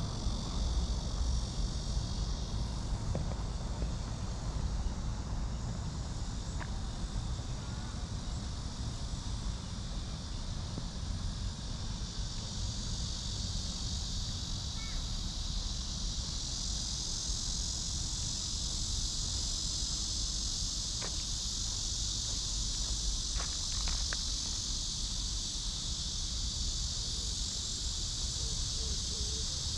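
Cicada chorus buzzing steadily, a continuous high drone that swells louder about halfway through.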